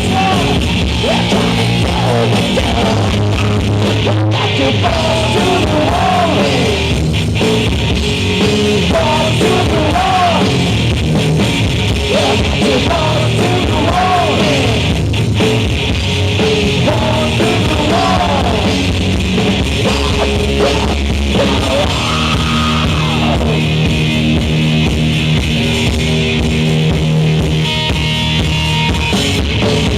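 A rock band playing live and loud: drum kit, instruments and vocals in one steady wall of music.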